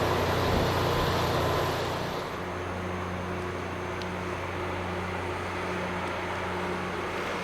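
Rail grinding machine at work: a loud hissing grind that dies away about two seconds in, leaving its engine running with a steady low hum.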